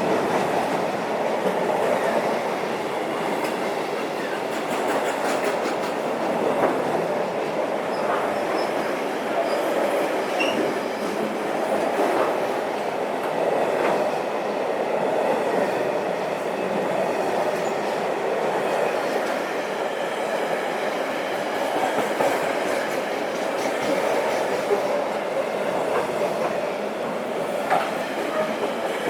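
Train running past at a steady level, its wheels rolling on the rails with scattered faint clicks.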